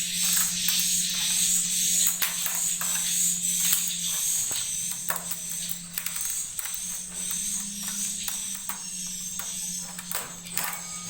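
Swiftlets twittering inside a swiftlet house: repeated high chirps mixed with many short sharp clicks, over a steady low hum.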